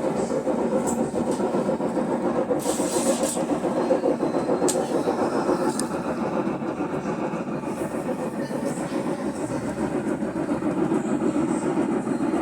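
Brastemp BWH15 top-load washing machine running, its gearbox giving a steady grinding mechanical noise with a few light clicks. The gearbox noise is the sign of the machine's mechanical problem.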